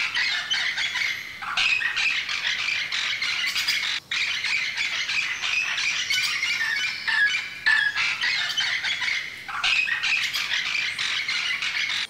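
Birds squawking and chirping in a dense, continuous chatter of quick calls, broken by short pauses about a second and a half in, at four seconds and near ten seconds.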